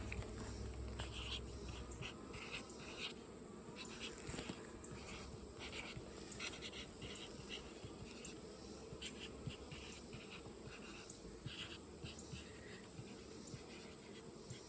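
Honeybees buzzing around the hive in a steady, faint hum, with scattered light scratches and clicks.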